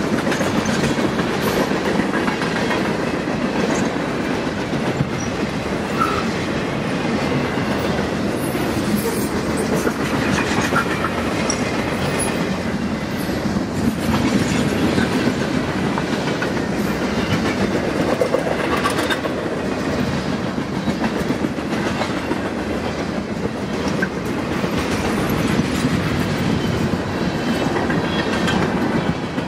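A long freight train's cars rolling steadily past, the wheels rumbling and clicking over the rails.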